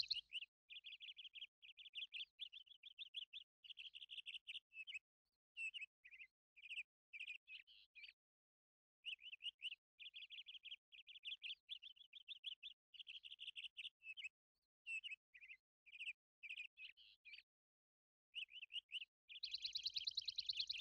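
Faint birdsong: quick runs of short chirps and trills with brief pauses between them.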